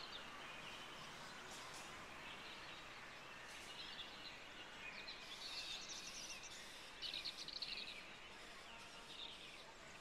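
Faint bird chirps in a few short, quick bouts, the loudest about seven seconds in, over a steady low hiss.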